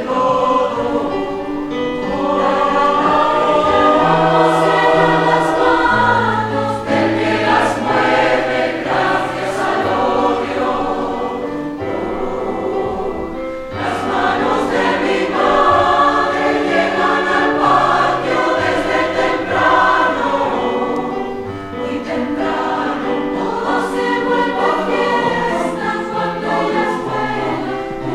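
A school choir singing in parts, with sustained low notes underneath.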